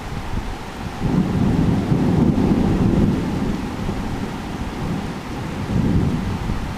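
Thunder rumbling over steady heavy rain. The low rumble swells about a second in, dies away, and swells again more weakly near the end.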